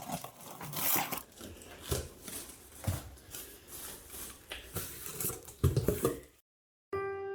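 Irregular rustling and crinkling with a few sharp clicks and knocks, as things are handled. It cuts to a brief silence, and music with bell-like tones begins just before the end.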